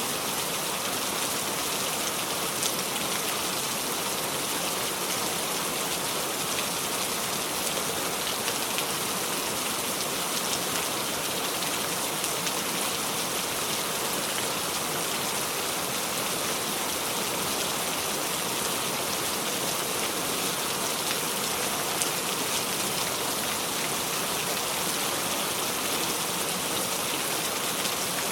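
Steady heavy rain falling on a surface, a constant hiss with scattered droplet ticks and no thunder.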